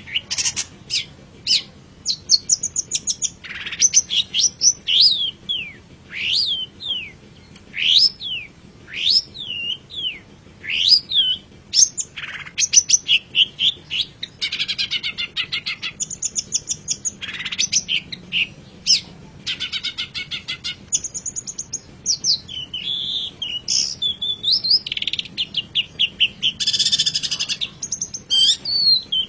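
Long-tailed shrike (cendet) singing a long, varied song: sharp rising and falling whistled notes mixed with fast rattling trills and buzzy chatter, phrase after phrase with short gaps.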